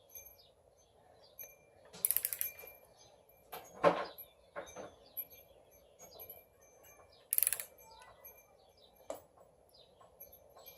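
Hand wrench ratcheting in short quick bursts, with metal clinks and a knock, as a bolt is run down on an engine's front accessory parts.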